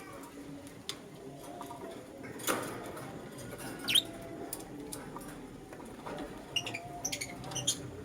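Young lutino lovebirds chirping: short, sharp, high chirps that sweep downward, scattered at first, loudest about four seconds in, then a quick run of chirps near the end, over softer, lower calls.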